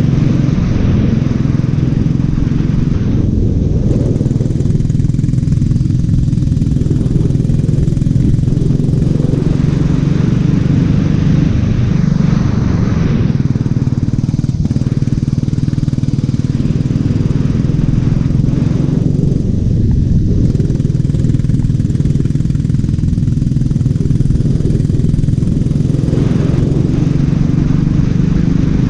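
Racing go-kart engine running continuously on track, with a steady low engine note throughout. The sound turns duller for a few seconds twice, about four seconds in and again just before twenty seconds.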